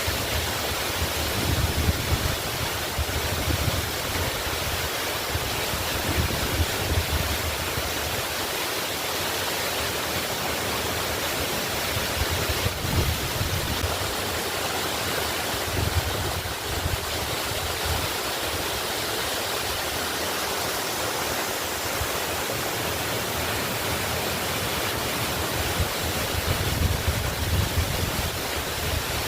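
Waterfall pouring steadily, a continuous full rushing of falling water, with low rumbles swelling and fading now and then beneath it.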